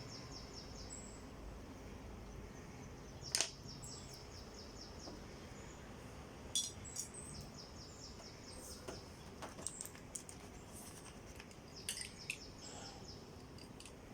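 Bird calls: quick, high-pitched trilling chatters repeated every few seconds over a faint background hiss, with a few sharp clicks, the loudest about three seconds in.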